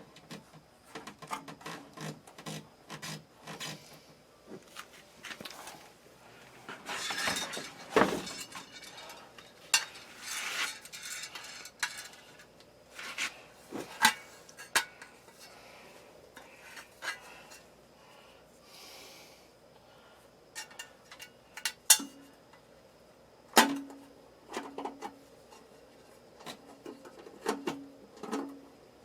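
Hand tools and metal parts being handled: irregular clicks, clinks, knocks and scrapes, with a few sharper metallic strikes that ring briefly.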